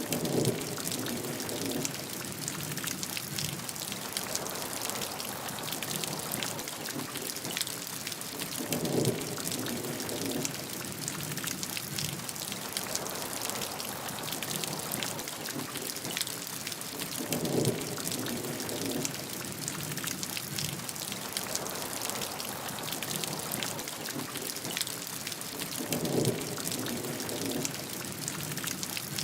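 Steady heavy rainfall: a dense patter of drops over an even hiss. A short, deeper swell rises and fades four times, about every eight and a half seconds.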